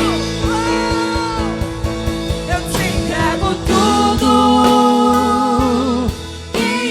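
Contemporary Christian worship song played by a band, with a voice holding long notes, the longest lasting about two seconds past the middle. The music drops briefly near the end.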